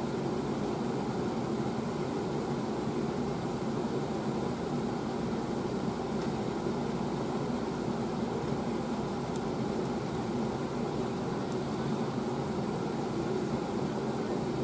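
Steady machine hum, like a fan or air-conditioning unit running, unchanging throughout, with a few faint ticks about two-thirds of the way through.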